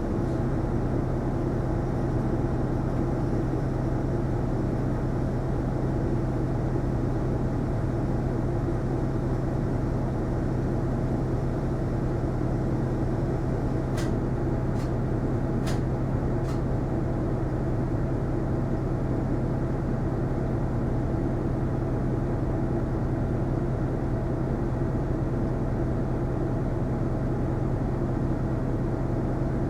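Isuzu Erga non-step bus engine heard inside the passenger cabin, running with a steady, unchanging low hum. Four short clicks come about halfway through.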